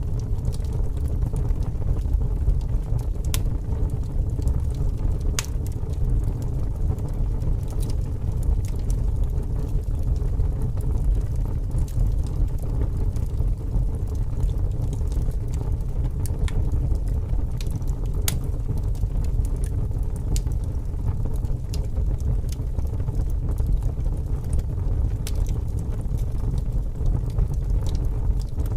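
Wood fire crackling, with scattered sharp pops and snaps, over a steady low rumble of strong wind.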